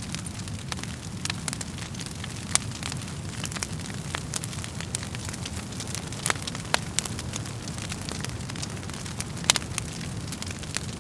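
Wood fire crackling in a fireplace: a steady low rumble of the flames with irregular sharp pops and snaps, a handful of them louder than the rest.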